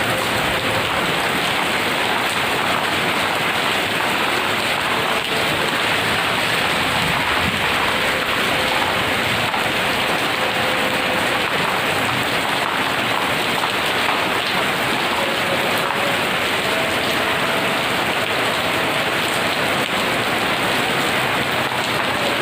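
Heavy rain falling steadily, a dense, even hiss of rain on surfaces that holds without letting up.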